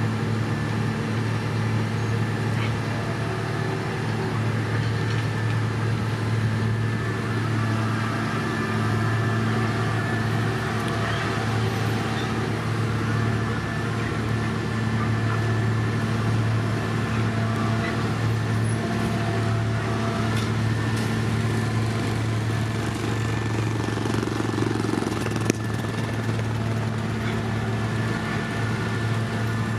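Heavy diesel construction machinery running steadily, a constant low engine drone. There is one sharp knock about 25 seconds in.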